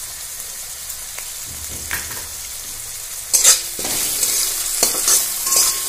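Onion-paste masala frying in hot mustard oil in a metal kadai, sizzling steadily. About three seconds in, a spatula starts stirring and scraping against the pan in repeated strokes, and the sizzle grows louder.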